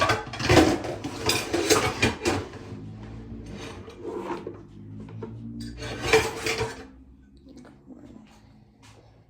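Dishes and cutlery clattering as they are handled: a busy run of clinks and knocks in the first two seconds or so, then shorter clatters about four and six seconds in.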